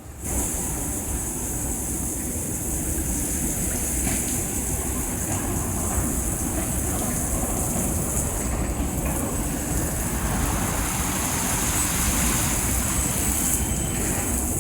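Leisuwash 360 touchless car wash machine kicking in about a third of a second in, then running steadily: a loud hiss over a low rumble.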